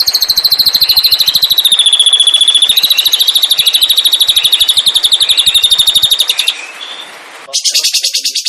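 Songbird singing a long, very rapid trill of about a dozen notes a second, held for roughly six seconds. After a short break, a second rapid trill of a broader, higher pitch starts near the end.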